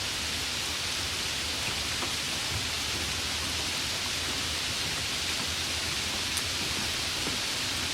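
Steady heavy rain with a constant hiss and faint ticks of individual drops landing.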